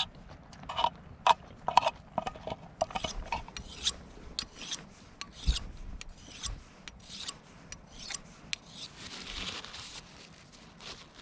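A knife scraping in quick, irregular strokes, about two or three a second, with a slight ringing to some of the early strokes.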